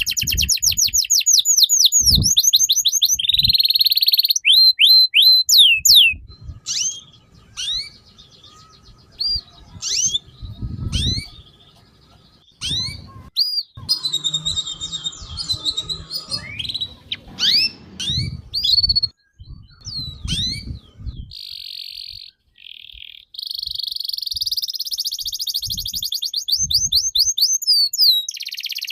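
A songbird singing energetically: rapid runs of high whistled sweeps and chattering notes, broken by short pauses, then a long unbroken trill near the end.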